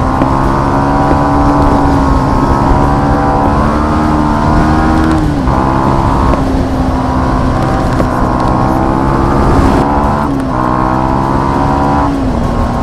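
Yamaha MT-15's single-cylinder engine running under way, its pitch climbing slowly and dipping sharply about five and ten seconds in, with wind rush over the microphone.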